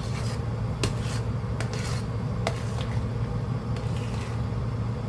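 A spoon or ladle stirring and scraping a thick, sticky rice-and-sugar mixture in a cooking pot. A few sharp knocks of the utensil against the pot sound over a steady low hum.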